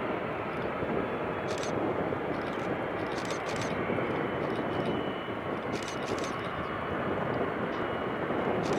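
Jet airliner engines running, a steady rush of noise with a faint high whine through the middle.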